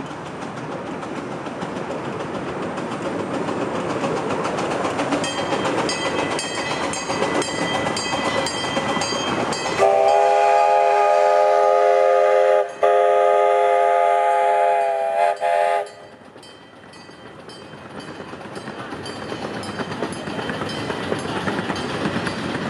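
One-third-scale steam locomotive running with a train, rhythmic clicking growing louder as it nears. About ten seconds in its steam whistle blows one long, loud blast of about six seconds, broken twice briefly near the end, after which the running and clicking carry on.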